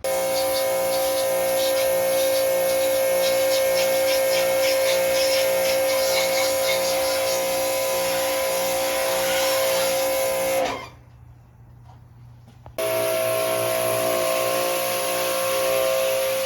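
Electric pressure washer running and spraying, a steady motor hum under a hiss of water. It cuts off about eleven seconds in, its pitch falling as the motor spins down, and starts again about two seconds later.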